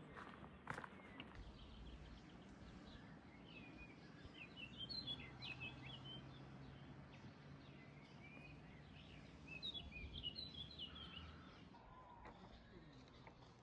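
A songbird singing two short bouts of quick, high chirping notes, one a little past a third of the way in and one about three quarters of the way in, over faint outdoor background noise.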